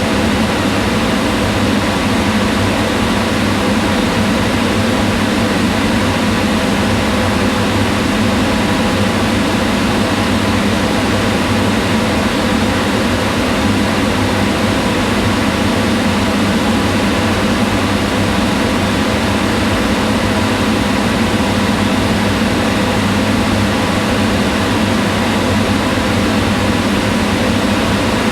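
Kitchen range hood's exhaust fan running steadily: an even whirring rush with a low hum beneath it.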